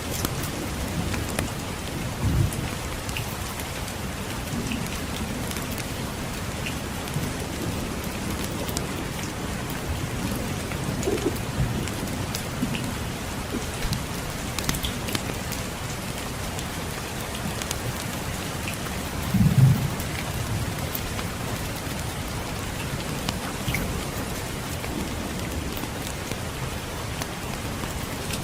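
Steady rainfall with scattered light crackles, and two short low rumbles of distant thunder: one about two seconds in and a louder one about two-thirds of the way through.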